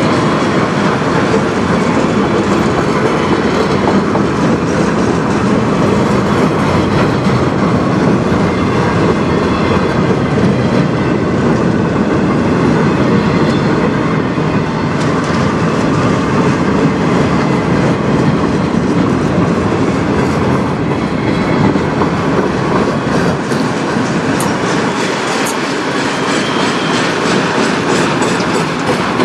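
Freight train of autorack cars rolling steadily past close by: a loud, even rumble of steel wheels on the rails.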